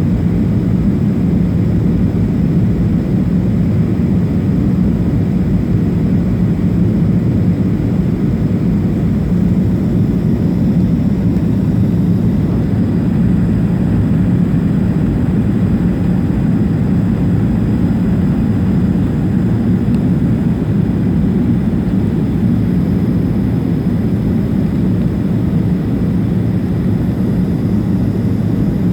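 Steady cabin noise inside a Boeing 737-500 on approach: a constant low rumble of its CFM56 jet engines and the airflow past the fuselage.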